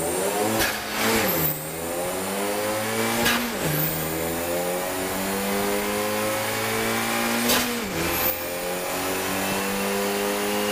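Car engine pulling hard on a chassis dyno, its pitch climbing and then falling back sharply three times, about 1.5, 3.5 and 8 seconds in, as it shifts up through the gears.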